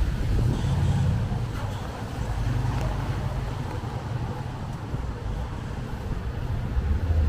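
City street ambience in heavy rain and strong wind: a steady, fluctuating low rumble of wind and passing traffic over a hiss of rain.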